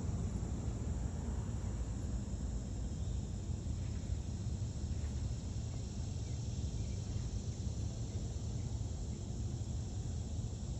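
Outdoor nature ambience: steady high chirring of crickets over a constant low rumble.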